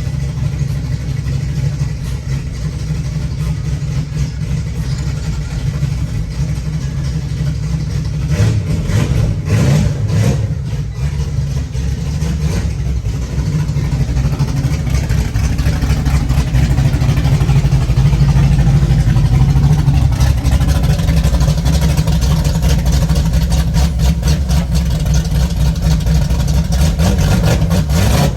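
Fox-body Ford Mustang's engine running with a deep, steady rumble that grows louder about halfway through.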